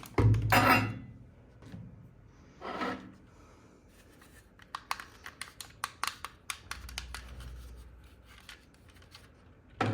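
Hands handling a toy and its packaging: a brief rustle at the start, a short scraping rub about three seconds in, then a run of small sharp clicks and taps.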